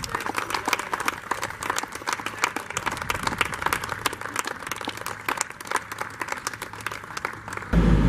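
Crowd applauding, with many overlapping hand claps. Near the end it cuts suddenly to the loud, steady low rumble of a heavy machine's engine.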